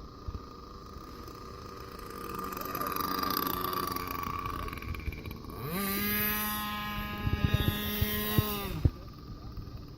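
Model airplane motor throttled up with a quick rising whine, running at a steady pitch for about three seconds, then cut off abruptly. Before it, a fainter motor hum swells and fades.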